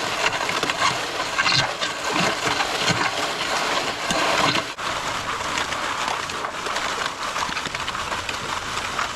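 Wet concrete pouring out of a MudMixer portable concrete mixer onto the pad, a steady rushing noise, broken by a brief drop about halfway through.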